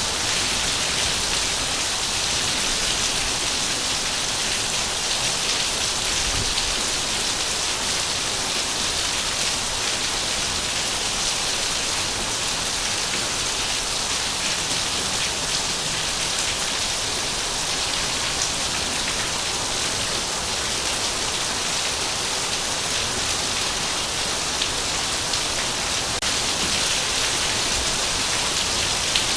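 Heavy rain falling steadily, an even hiss of many drops on surfaces with no let-up or change.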